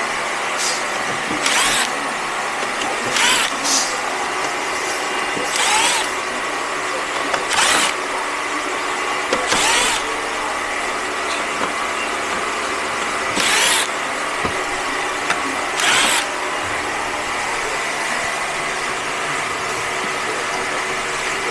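A machine running steadily, with short hissing bursts every two seconds or so; it cuts off abruptly near the end.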